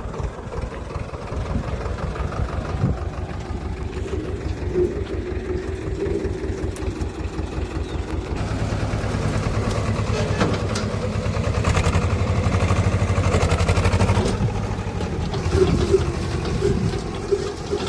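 Swaraj tractor's diesel engine running with an even pulsing beat, growing louder about halfway through and easing off again near the end.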